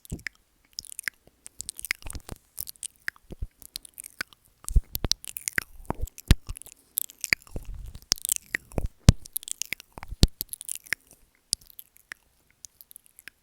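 Close-miked ASMR mouth sounds at the microphone: wet clicks, smacks and licks in an irregular stream. They are busiest in the middle and thin out to a few scattered clicks near the end.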